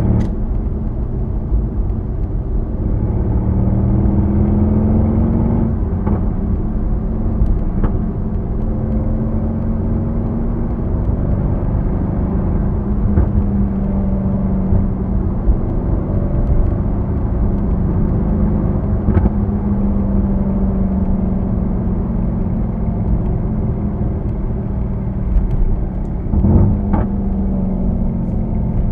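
Mercedes-AMG C63 S's stock exhaust from its twin-turbo V8, running at low revs while creeping in stop-and-go traffic, its low drone drifting gently up and down in pitch. It is picked up by a recorder inside the boot.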